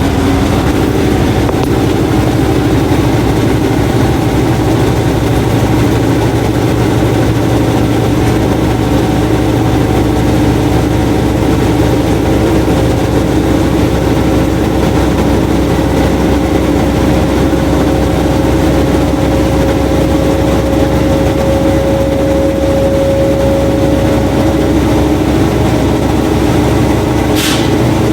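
Washing machine running with a loud, steady mechanical hum and a faint whine that rises slightly in pitch, then fades. A brief high hiss comes near the end.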